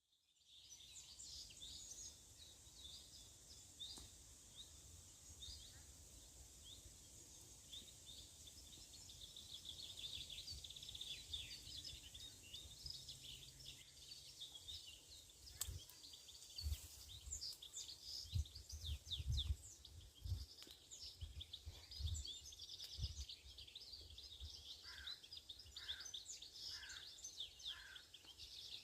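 A chorus of small birds chirping and twittering continuously, faint and at a distance. There are a few low thumps in the middle, and a run of four lower, evenly spaced calls near the end.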